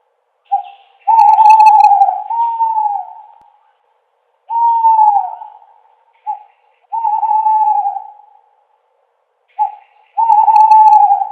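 An owl hooting: a series of about eight hoots, short notes leading into longer drawn-out ones, several falling in pitch as they end, with brief pauses between.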